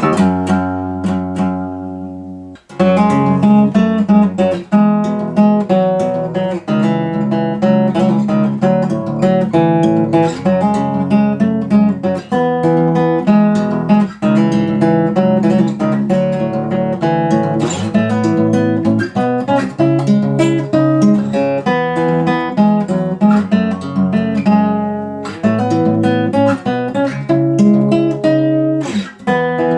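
Acoustic guitar being played, picked and strummed chords in a continuous run, recorded in stereo. It opens on one chord left to ring and die away, and the playing goes on without a pause until a short break just before the end.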